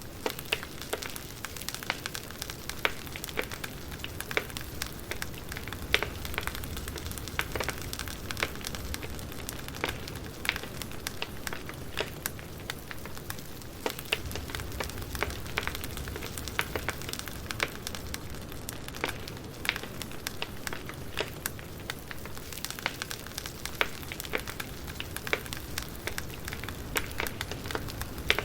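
Wood fire crackling: a steady hiss with frequent irregular snaps and pops of burning logs.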